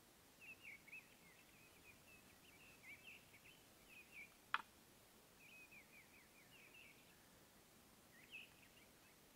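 Faint birdsong: short, quick chirping phrases repeating on and off. One sharp click about four and a half seconds in.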